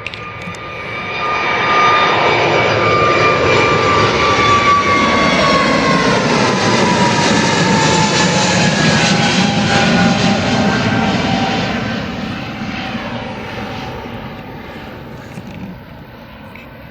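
Airbus A320neo's CFM LEAP-1A turbofan engines at takeoff power as the jet passes on its takeoff roll. The jet noise builds over about two seconds, holds loud, then fades, and a whining engine tone drops in pitch as the aircraft goes by.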